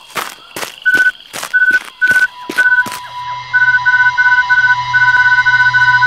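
Handheld electronic gadget beeping: short high beeps, spaced at first, coming faster about halfway through and running into a quick stream near the end, over a steady electronic tone and low hum. Regular thuds, about two a second, run until about halfway.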